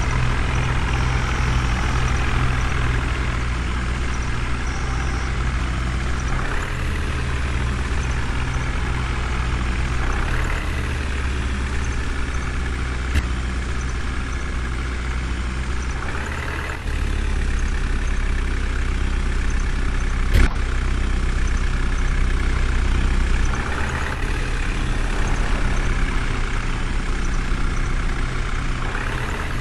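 Diesel engine of a JCB backhoe loader running steadily, its sound and load shifting every few seconds as it works. Two sharp knocks stand out, one a little before halfway and one about two-thirds through.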